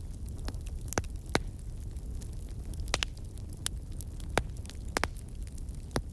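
Wood fire crackling: sharp pops and snaps at irregular intervals, several a second at times, over a steady low rumble.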